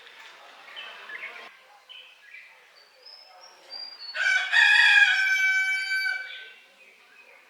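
A rooster crowing: one long call about four seconds in, the loudest sound here, with a thin high bird chirp just before it.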